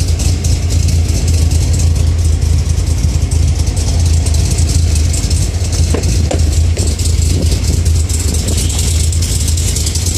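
Cammed 6.2-litre V8 of a Camaro-based Firebird Trans Am build idling steadily, not yet fully warmed up.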